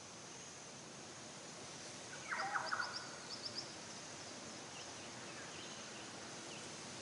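Outdoor nature ambience with a steady hiss. A bit over two seconds in, a bird gives one short call of rapid notes, the loudest sound here, with a few faint high chirps from small birds around and after it.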